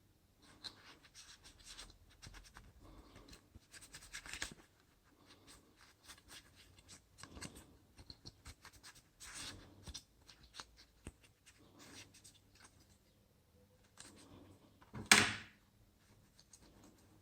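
Small handling noises from work on a laptop: intermittent scraping and rustling with small clicks, and one loud sharp snap about fifteen seconds in.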